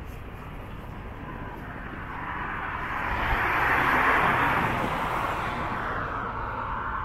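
A vehicle driving past, the noise swelling to a peak about four seconds in and then fading.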